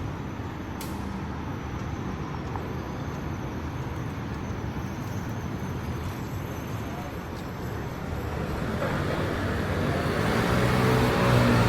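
Steady street traffic on wet pavement, with a motor vehicle approaching and growing louder over the last few seconds, its engine hum and tyre hiss rising.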